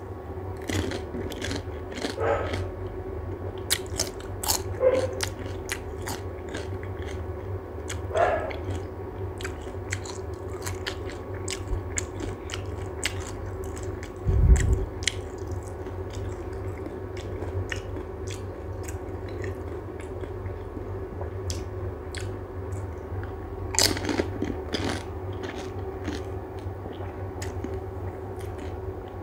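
Close-up crunching and chewing of pani puri: the crisp, hollow puris crack as they are bitten and are then chewed, in scattered short crunches over a steady low hum. A low thump comes about halfway through.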